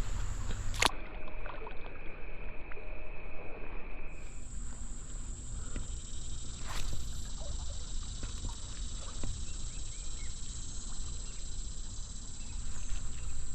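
Steady high-pitched drone of insects over creek water sloshing and trickling, with a low rumble underneath. About a second in the high drone cuts off with a click and a lower steady buzz takes over; around four seconds the high drone returns.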